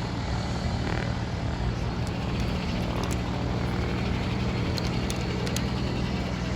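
Light aircraft engine running steadily, a continuous even drone with no change in pitch.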